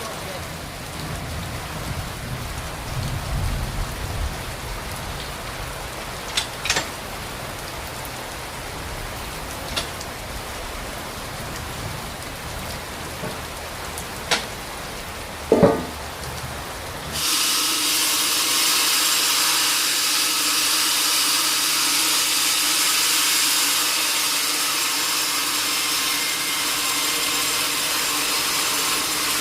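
A steady hiss with a few sharp knocks, then a little past halfway a sawmill saw starts cutting through the log suddenly and runs on steadily: a loud hiss with a steady hum in it.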